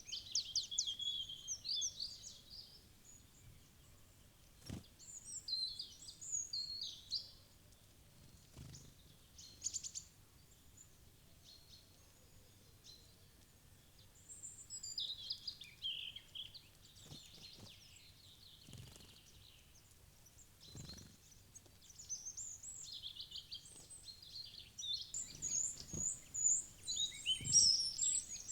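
Small woodland birds chirping and calling in short, repeated bouts of high trills and chirps, with a few scattered soft knocks in between.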